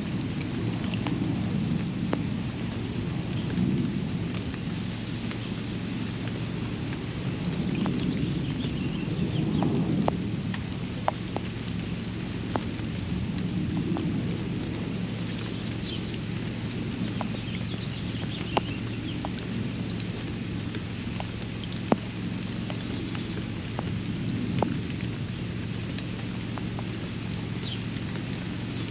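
Steady rain falling around a backyard pond, with a low rolling rumble that swells and fades in the first half and a few sharp single taps. Faint bird chirps come through now and then.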